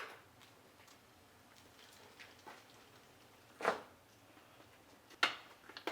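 Mostly quiet room tone, broken by a short sharp knock at the start and two brief scraping or rustling sounds, about three and a half and five seconds in.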